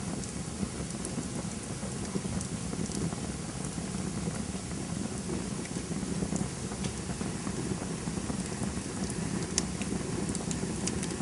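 Campfire burning: a steady low rush of flames under scattered crackles and snaps of burning wood, with one sharper pop late on.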